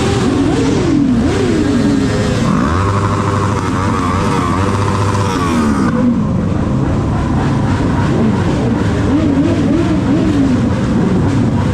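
Motorcycle engines revved again and again, their pitch rising and falling in quick blips, with the sound shifting abruptly a couple of times.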